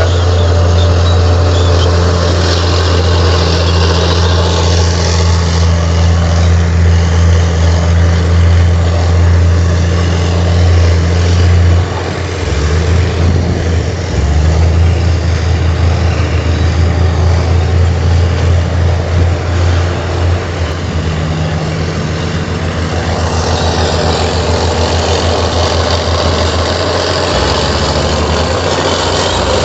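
Komatsu bulldozer's diesel engine running under load with a deep, steady hum. It dips twice about halfway through, then pulses, and settles lower, close to idle, in the last third.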